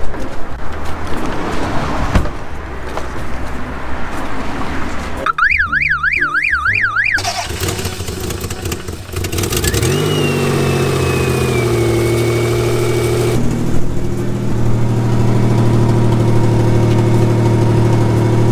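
A car alarm warbles for about two seconds. A few seconds later the Toyota Camry's engine starts, its pitch rising and then settling into a steady idle. A faint high whine falls away over the first couple of seconds of running.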